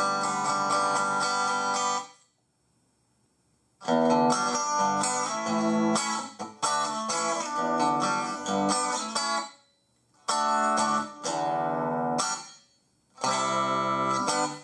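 Acoustic guitar played through a NUX Mighty Air small wireless guitar amplifier, in four short strummed and picked chord phrases. Each phrase stops abruptly into silence before the next begins.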